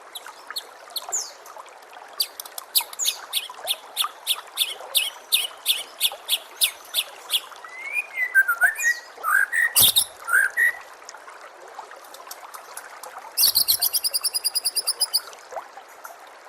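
White-rumped shama song. It starts with a quick run of sharp, repeated high notes, moves into lower gliding whistles, and ends with a fast rattling trill near the end. A steady trickle of water runs underneath.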